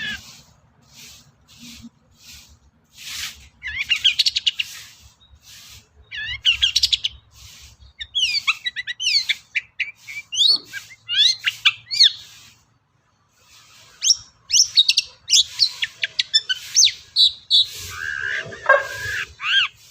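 Long-tailed shrike (cendet) singing a fast, varied chattering song strung with mimicked calls of other birds, in bursts of rapid high notes and quick sweeping whistles separated by short gaps. A brief pause comes about two-thirds in, and a harsher, lower passage near the end.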